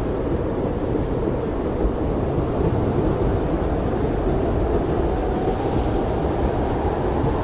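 Blizzard wind blowing steadily, a deep, even rush of noise with a faint whistling tone that rises slightly near the end.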